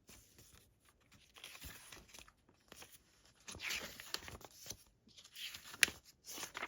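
Paper rustling and crinkling as a glossy booklet's pages are handled and turned, in uneven swishes, with one sharp click about six seconds in.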